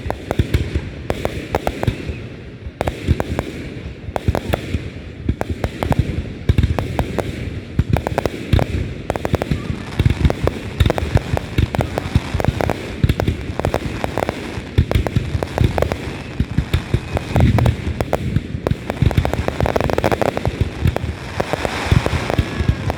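Fireworks going off in quick, irregular succession: many sharp bangs and crackles overlapping.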